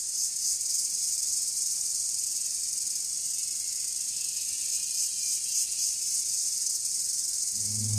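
Steady high-pitched insect chorus of tropical forest, a dense shrill hiss with a faint fast pulsing.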